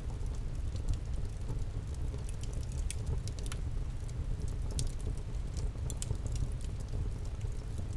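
Campfire crackling: irregular sharp pops and snaps of burning wood, several close together around the middle, over a low steady rumble.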